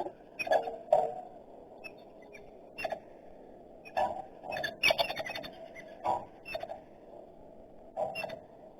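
Irregular short, sharp taps and clicks, a dozen or so, coming in small clusters and thickest around the middle.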